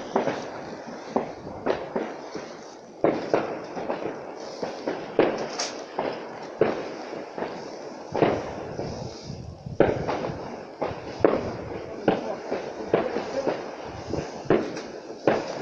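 Fireworks going off: a long run of irregular sharp bangs and cracks, several a few seconds apart and some in quick clusters, each trailing off in a short echo.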